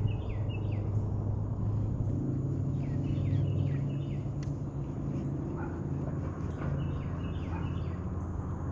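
A songbird singing a short phrase of three or four quick down-slurred whistled notes, repeated about every three seconds, over a steady low hum.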